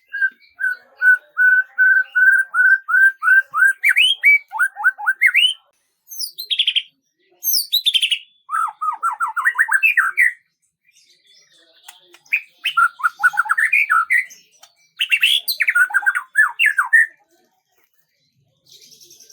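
A songbird singing. It opens with a fast run of about a dozen repeated notes on one pitch, then goes into rising and falling whistled sweeps. The phrases come in bursts separated by short pauses of about a second.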